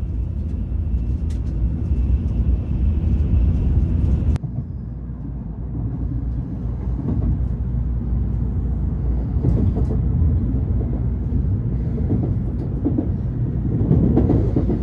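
Shinkansen bullet train heard from inside the carriage: a steady low running rumble. It shifts abruptly about four seconds in and swells slightly near the end.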